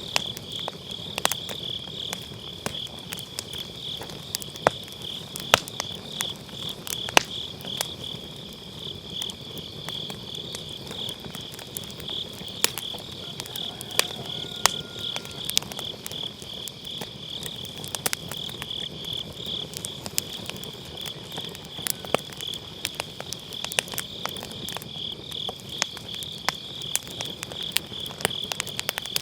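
Firewood burning in a fire pit, crackling with irregular sharp pops, over the steady, rapidly pulsing high chirping of autumn field insects.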